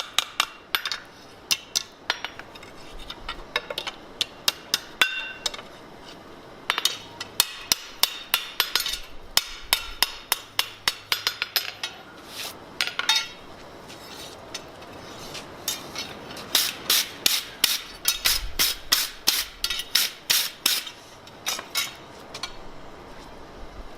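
Blacksmith's hammer striking steel on an anvil in runs of quick blows, about three to four a second, broken by short pauses, some blows leaving a brief metallic ring. The longest and densest run comes in the second half.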